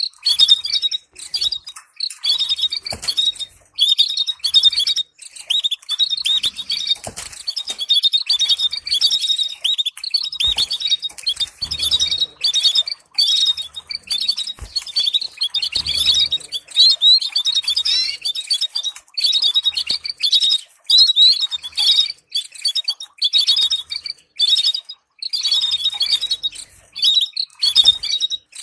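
Canary singing continuously: rapid trills and chirping phrases separated by short breaks, a tutor song for training young canaries.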